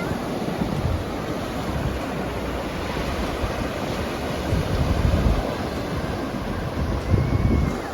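Ocean surf washing on the beach, with wind buffeting the microphone in low gusts, strongest mid-way and near the end.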